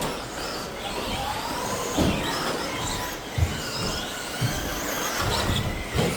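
Several RC stadium trucks with 13.5-turn brushless electric motors racing, their overlapping motor whines rising and falling in pitch as they accelerate and slow, with a few short low thumps.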